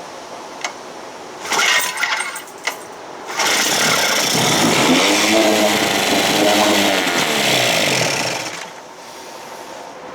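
1956 Evinrude 7.5 hp two-cylinder two-stroke outboard being pull-started: it sputters, then catches and runs for about five seconds. Its speed rises and falls twice before it cuts out. It is hard-starting and keeps needing the choke, and the owner suspects a dirty carburetor.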